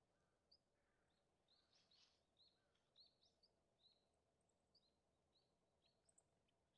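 Small songbirds calling faintly: a scatter of short, high chirps, thickest in the first half, over a low steady hiss.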